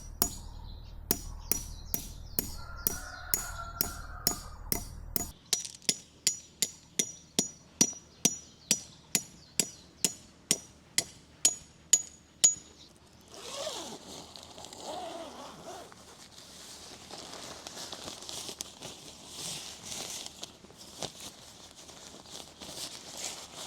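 Metal tent pegs being hammered into the ground, about two strikes a second, each blow ringing with a high ping, for about twelve seconds. Then a softer rustling and scraping.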